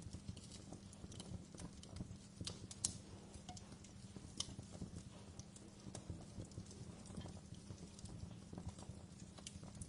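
Wood fire burning in a fireplace. Irregular sharp crackles and pops sound over a low, steady rumble of the flames, with one louder pop about three seconds in.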